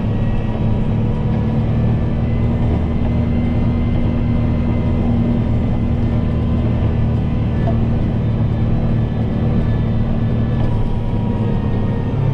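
Kubota M7060 tractor's four-cylinder diesel engine running steadily with an even low drone.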